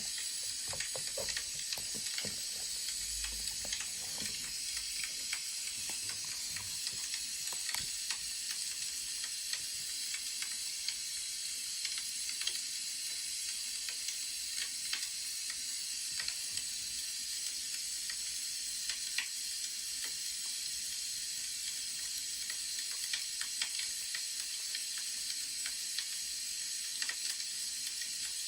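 Wood fire crackling: a steady hiss with scattered sharp pops and snaps throughout, and a few soft low knocks in the first few seconds.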